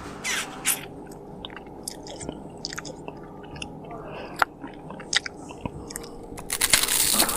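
A person chewing and biting food close to the microphone, with moist clicks and smacks, and a louder, denser burst of noise about a second long near the end.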